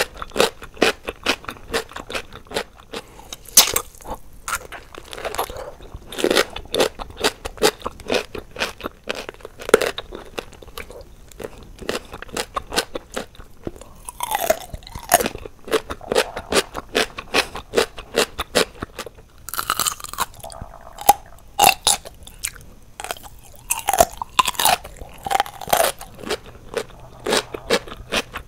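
Biting into and chewing whole pickles close to the microphone: a dense run of crisp, wet crunches, several a second, with a few juicier mouth sounds in between.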